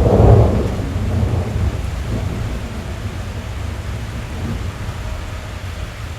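Rain drumming on a car's roof and windows, heard from inside the cabin, with a roll of thunder that is loudest at the start and dies away over the next couple of seconds.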